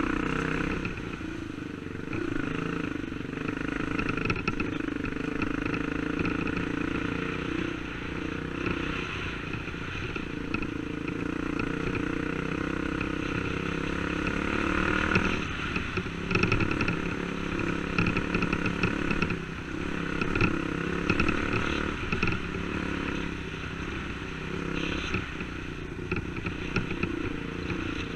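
Dirt bike engine running steadily while riding, its pitch shifting a little, with scattered knocks and clatter, more of them in the second half.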